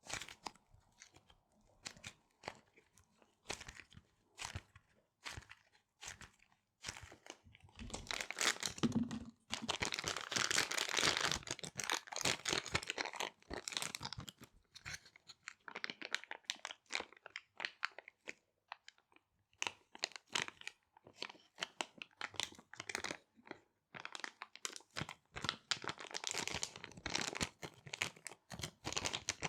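Small resealable plastic bags being handled, crinkled and rubbed in the hands: a dense run of sharp crackles, thickest for a few seconds about a third of the way in and again near the end.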